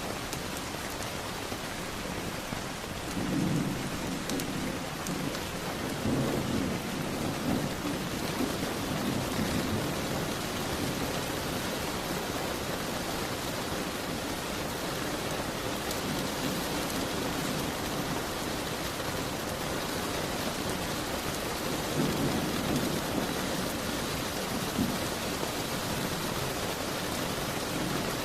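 Steady heavy rain hissing against a window, with low rumbles of thunder swelling up several times, loudest about a few seconds in and again near the end.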